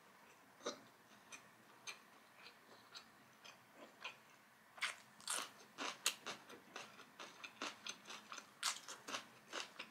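Crunching of raw bell pepper being bitten and chewed. It starts as soft, sparse chewing clicks, and from about five seconds in turns to louder, denser crisp crunches.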